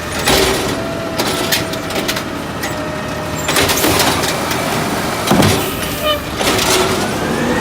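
Garbage truck running, with many sharp knocks and clatter over the steady engine noise and a louder thump about five and a half seconds in.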